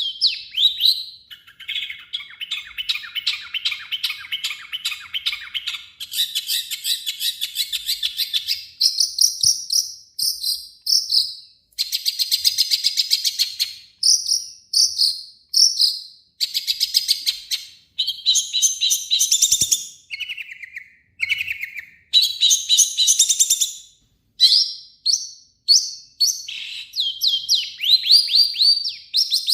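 Long-tailed shrike singing a fast, harsh song: dense chattering runs and rapid series of high notes in bursts of one to three seconds, broken by short pauses.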